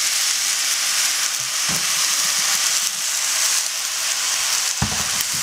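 Spelt pasta and vegetables sizzling in grapeseed oil in a stainless steel sauté pan as cheese sauce is spooned in and tongs turn the food. A couple of dull knocks are heard, one about a second and a half in and a heavier one near the end.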